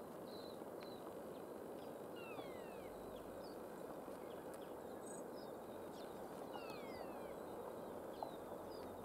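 Small birds calling softly: short whistled notes that slide down in pitch, singly and in quick little runs, over a faint steady rushing background.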